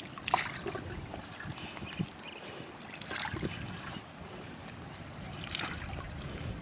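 Water splashing and sloshing: three short splashes a couple of seconds apart over a steady watery background.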